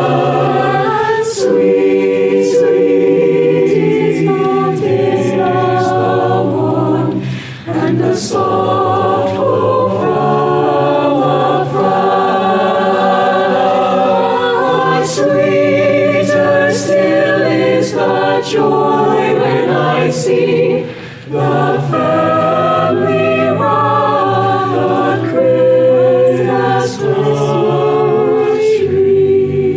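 High-school madrigal choir singing a cappella, holding chords in close harmony, with two brief breaths in the singing, one about seven seconds in and one past the two-thirds mark.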